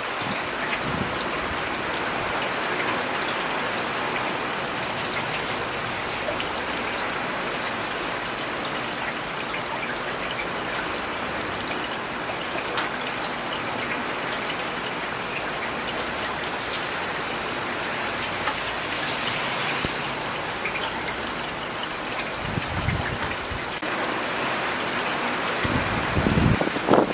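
Steady rain falling, an even hiss of drops. Two brief low rumbles come through, one about 23 seconds in and one near the end.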